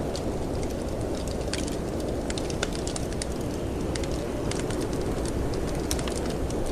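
Wood fire crackling in a fireplace, with frequent sharp pops and snaps, over a steady low rush of wind.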